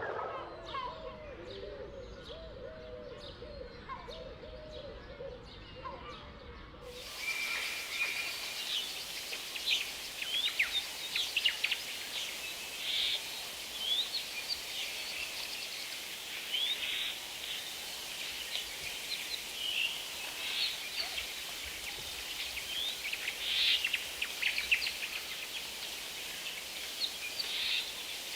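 Rainforest ambience. For the first seven seconds there are low, wavering animal calls repeated again and again. Then the sound cuts to a dense chorus of short, high bird chirps over a steady hiss.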